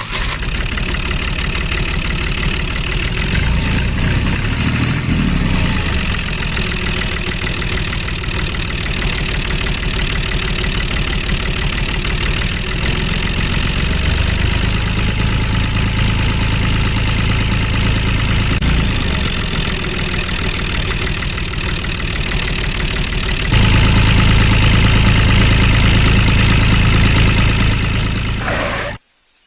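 Motor of a home-made mini tractor running steadily with a fast, even rattle. It gets louder about 23 seconds in, then cuts off suddenly near the end.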